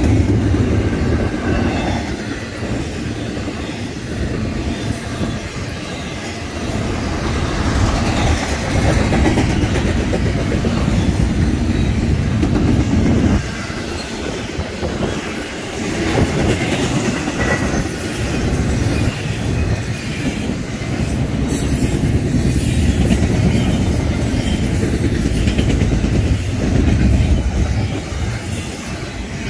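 BNSF freight train rolling past close by, its wheels clattering steadily over the rails.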